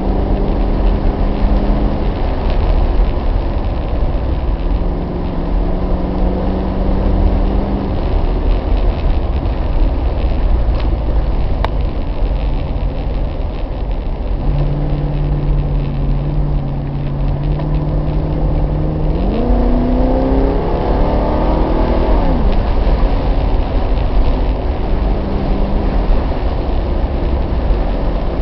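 Triumph Stag's 3.0-litre V8 engine running on the move under a heavy low rumble of road and wind noise. About twenty seconds in, the engine note rises sharply, then drops back a couple of seconds later.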